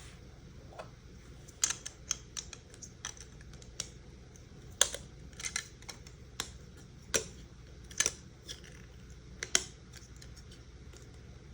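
Hard plastic LEGO pieces clicking and tapping as they are handled and pressed together, in a dozen or so sharp, irregular clicks.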